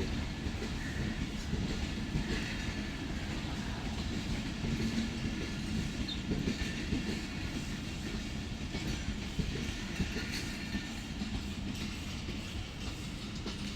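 Awam Express passenger train running on the rails: a steady low rumble with irregular wheel knocks and clatter over the track.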